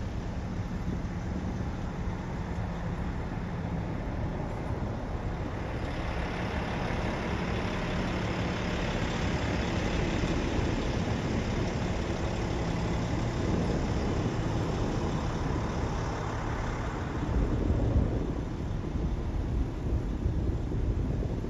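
A motor vehicle engine running at a steady idle. A broad rushing noise swells up through the middle and fades again, and there is a brief louder low rumble near the end.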